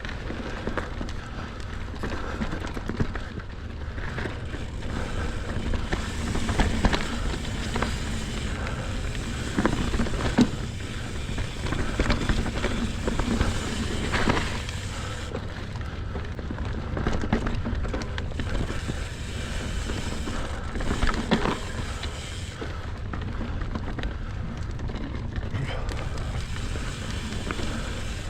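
Mountain bike riding over a frozen dirt trail: the tyres rumble steadily over the ground, and the bike rattles and clunks at irregular moments over bumps, with wind buffeting the GoPro's microphone.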